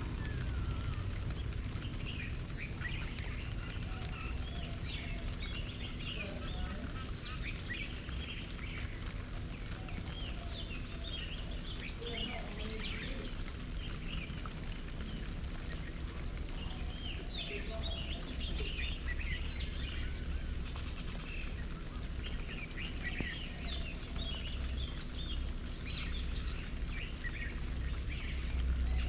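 Small birds chirping and calling in quick short notes, over a steady low rumble that gets louder in the second half.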